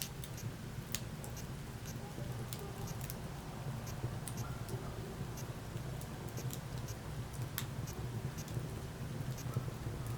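Burning wood crackling in a fireplace: scattered sharp pops and clicks over a steady low rumble.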